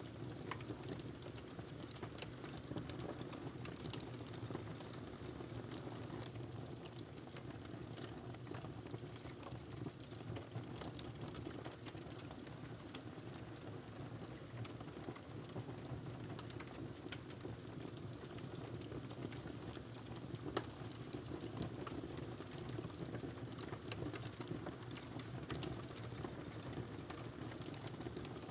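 Wood fire crackling steadily in a fireplace: a low, even rush of the burning fire with frequent small pops and snaps throughout.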